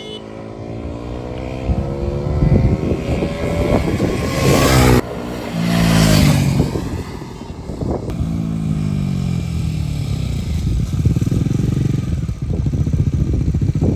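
Bajaj Pulsar NS400Z's single-cylinder engine accelerating, its pitch rising for about four seconds, breaking off sharply about five seconds in, then falling and settling into a steady run.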